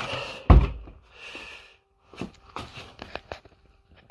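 One heavy thump about half a second in, with soft breathing around it, then a run of light, irregular clicks and taps over the last two seconds.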